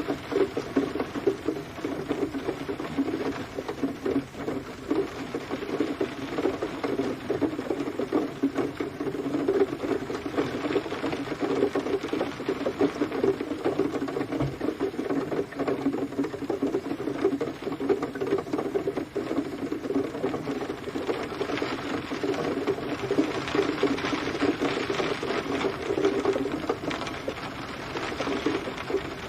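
Steady rain pattering on a surface, a dense, even drumming of many fast drops.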